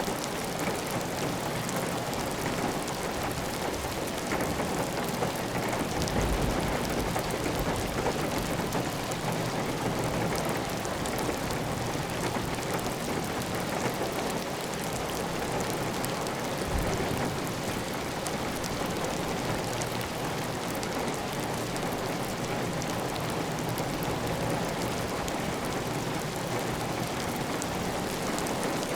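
Heavy rain falling steadily on a clay tile roof, with water running off the roof edge, as an even, dense hiss. A brief low rumble comes about six seconds in and a short low thump near seventeen seconds.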